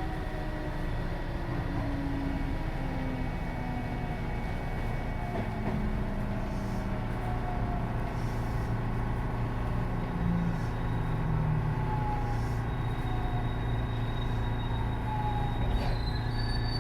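JR West 207 series electric train running, its Mitsubishi power-transistor and GTO thyristor traction equipment giving a whine of several tones that fall steadily in pitch as the train slows. High thin tones come in near the end.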